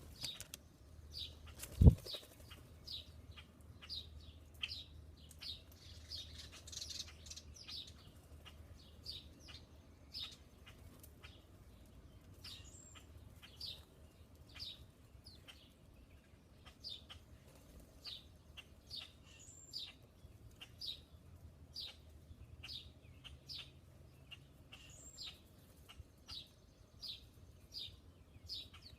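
A small bird chirping over and over, a short falling note repeated roughly one and a half times a second, with a few higher notes now and then. One loud thump about two seconds in.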